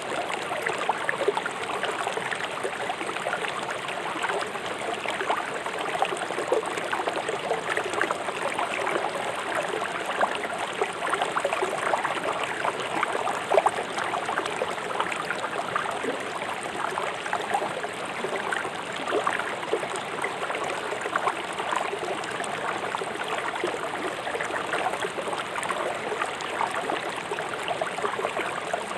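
Swift river water running over stones: a steady rush with many small splashes throughout.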